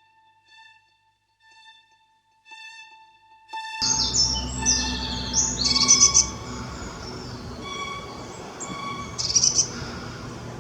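Small birds chirping and singing over background music with sustained tones. The first few seconds hold only soft, repeated musical notes; the birdsong and fuller music come in together about four seconds in.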